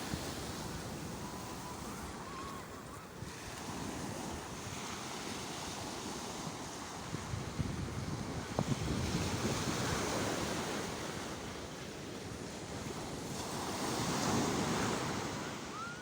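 Sea waves surging in a continuous wash, swelling louder twice: around the middle and again near the end.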